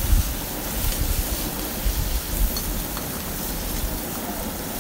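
Beef kidney pieces and chopped tomato sizzling steadily in hot oil in a karahi, with a spatula stirring and knocking against the pan a few times near the start.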